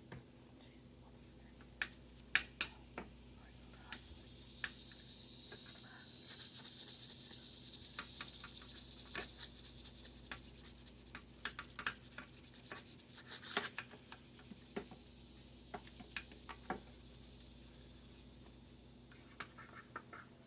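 Stiff brush scrubbing a soapy lawn mower deck, with scattered light knocks and taps of the brush against the deck. A louder stretch of hissing scrubbing comes in the middle.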